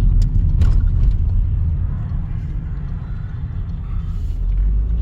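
Car engine and road noise heard from inside the cabin while driving into a village, a steady low rumble, with a few light clicks in the first second.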